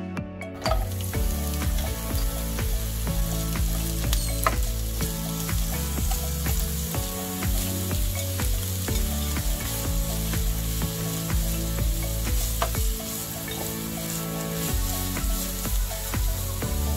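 Chopped onions and grated carrots frying in hot vegetable oil in a nonstick pan: a steady sizzle that sets in suddenly about a second in. Through it come light clicks and scrapes of a slotted spatula stirring the vegetables.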